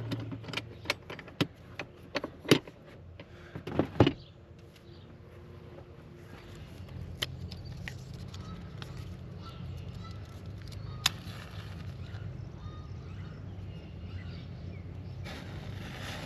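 Firewood and kindling clacking as they are handled, then about four seconds in a match strikes and a book of paper matches flares up with a sudden burst. A steady low rushing follows with an occasional crackle as the lit matchbook burns under the kindling.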